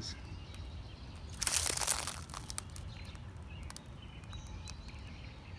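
A brief rustling crunch about a second and a half in, over a low outdoor rumble, with faint bird chirps later on.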